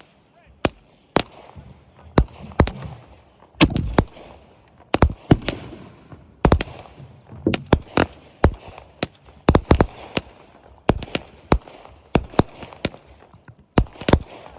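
Fireworks going off in a rapid, irregular run of sharp bangs, often several a second, each trailing a fading crackle.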